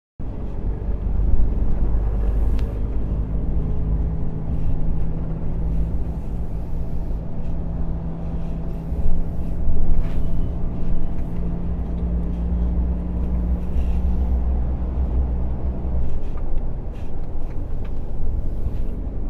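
Lorry's diesel engine running steadily under way, with road noise; the engine note holds steady, then shifts about three-quarters of the way through.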